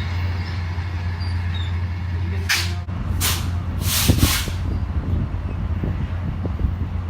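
Steady low engine hum with three short bursts of hissing air about halfway through, the kind of sound air brakes make when they release.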